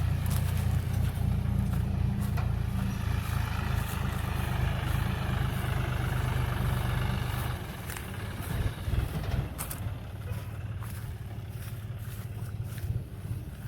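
Diesel engine of farm harvesting machinery running steadily with a deep rumble; it becomes noticeably quieter a little over halfway through.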